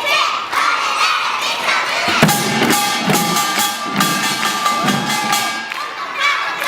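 Korean samulnori percussion played by kindergarten children: a quick run of drum and small-gong strokes with ringing gong tones. Shouting voices come in at the start and again near the end.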